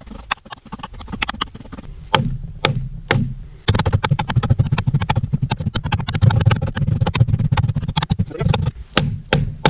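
Small N690 steel Woodpecker knife chopping into a block of wood: a few single strikes, then a fast run of chops from about four seconds in, with a few more strikes near the end.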